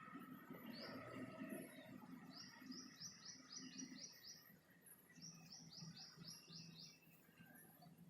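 A small songbird singing faintly: two quick runs of six or seven repeated high notes, the second about a second after the first, with softer, lower bird calls near the start.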